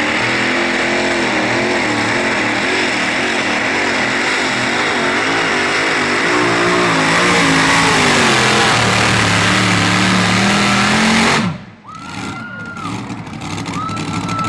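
Modified pulling tractor engine at full throttle pulling the sled, its pitch wavering up and down as it loads and unloads. About eleven seconds in the throttle is cut and the engine note drops away sharply, leaving a quieter running sound with two short high tones.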